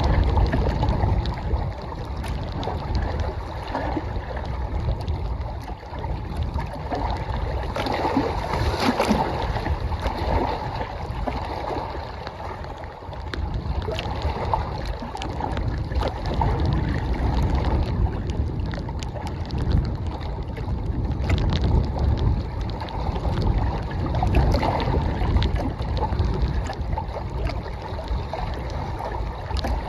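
Strong wind buffeting the microphone in gusts with a heavy low rumble, over lake water lapping at the shore, and rain falling with scattered small ticks.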